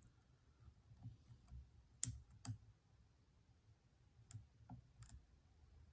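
Faint, sparse clicks of a lock pick and tension wrench working the pins in a Stanley padlock's keyway, with two sharper clicks about two seconds in and another about five seconds in.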